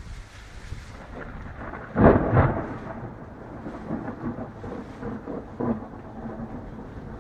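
A thunderclap about two seconds in, a sharp double crack followed by a rolling rumble of thunder with several smaller surges.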